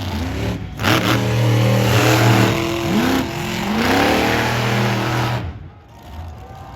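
Monster truck engine revving hard, its pitch repeatedly climbing and dropping as the throttle is blipped. It drops away sharply about five and a half seconds in.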